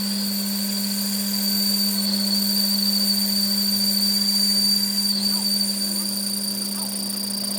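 A workshop machine running steadily, with a constant low hum and a high-pitched whine.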